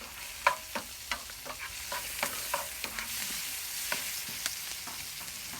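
Food sizzling in a hot pan, a steady frying hiss, with several irregular sharp clinks of a utensil against the pan, the loudest about half a second in.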